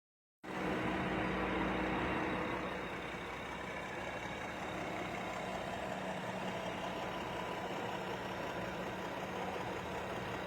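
Honda car engine idling steadily. It comes in suddenly about half a second in, runs a little louder for the first two seconds, then settles to an even level.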